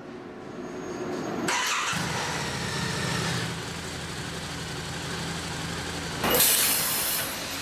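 Water-cooled V-twin engine of a Harley-Davidson V-Rod prototype starting about a second and a half in and settling into a steady idle, a check that it still runs after high-pressure water testing. Near the end, a loud rush of noise lasting about a second covers the idle.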